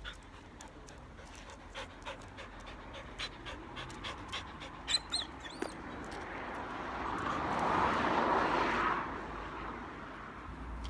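A dog panting, with a couple of brief high whines about five seconds in. A broad rushing noise swells up and dies away between about six and nine seconds.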